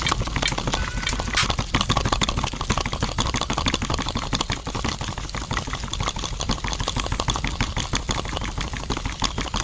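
A small motor running with a fast, even rattling clatter, many ticks a second.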